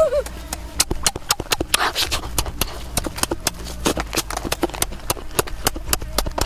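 Close-up eating sounds of a boy chewing cooked fish by hand: lip-smacking and chewing clicks in a quick, irregular run, several a second.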